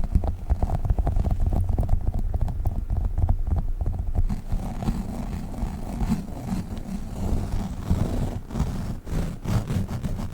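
Globbles sticky gel toys squished and pulled apart by hand close to the microphone: a continuous sticky squishing dense with small crackles and clicks.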